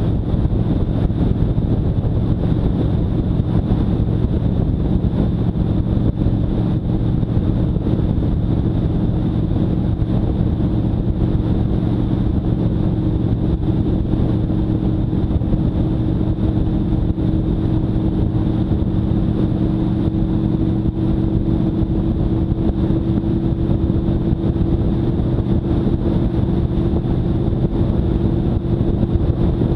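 Motorcycle engine running steadily under way, its pitch creeping slowly upward, with wind noise on the microphone.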